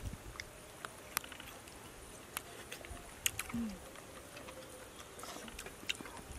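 People eating braised pig's head with their fingers: scattered sharp mouth smacks and chewing clicks, irregular and several per second at times, with a brief low hum about three and a half seconds in.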